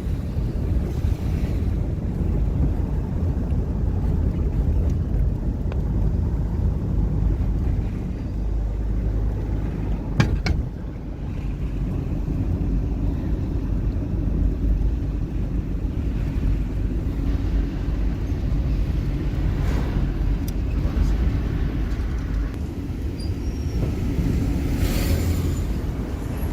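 A moving car's steady low rumble of engine and road noise, with one sharp click about ten seconds in.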